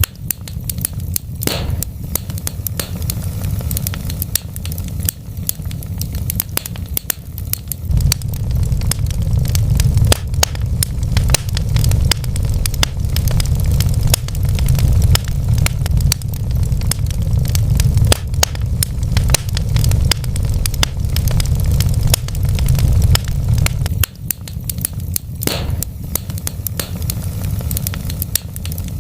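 Wood fire burning in a fireplace: continuous crackling and small pops over a steady low rumble of flames. Two sharper pops stand out, about a second and a half in and again near the end.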